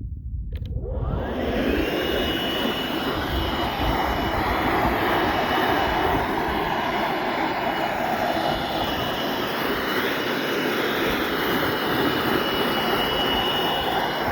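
A machine starting up and running: a whine rises in pitch over about a second and a half, then holds steady over a loud, even running noise.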